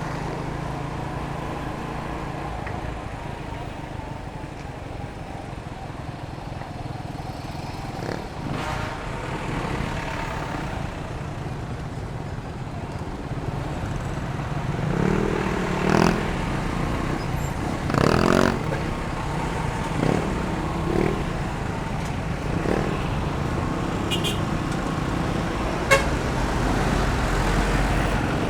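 Motorcycle riding through city traffic: steady engine and road noise, with a few horn toots past the halfway point.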